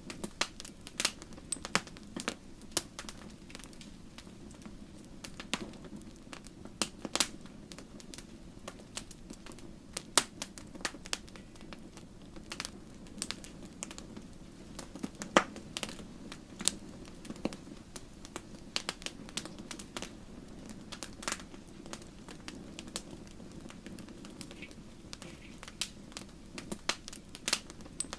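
Logs burning in a fireplace, crackling: irregular sharp snaps and pops over a steady low rumble of the flames, with one louder pop about halfway through.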